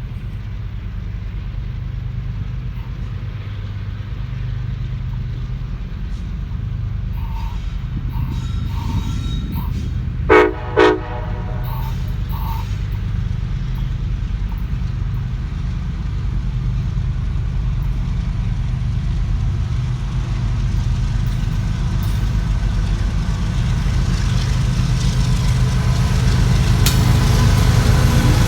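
Union Pacific SD70AH Tier 4 diesel locomotive running under throttle, a steady low rumble that grows gradually louder. About ten seconds in come two short blasts of its Nathan K5LA five-chime horn.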